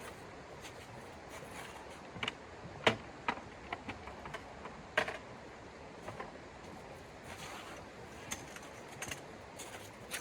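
Irregular light clicks and knocks, the loudest two about three and five seconds in, over a steady low hiss.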